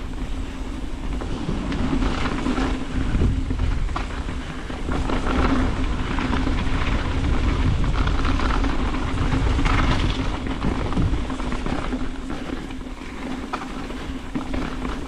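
Mountain bike riding down a rocky technical trail: tyres rumbling over rock and roots, the chain and frame rattling over bumps, and a steady hum running under it all.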